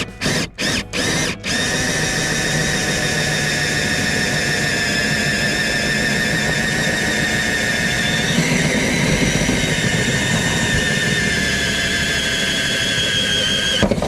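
Power drill run in a few short pulses, then held on steadily with a high whine that shifts in pitch about eight seconds in, boring a hole until it goes through.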